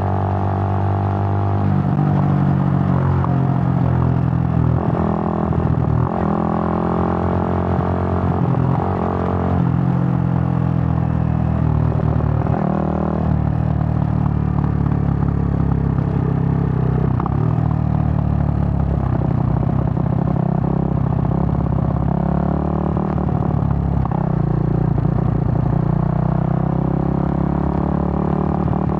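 Suzuki GN125's single-cylinder four-stroke engine running under way, its pitch rising and dropping several times as the rider works the throttle and changes gear.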